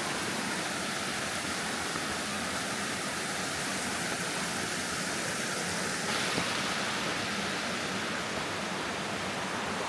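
Steady rush of running stream water mixed with falling rain. The hiss grows brighter about six seconds in.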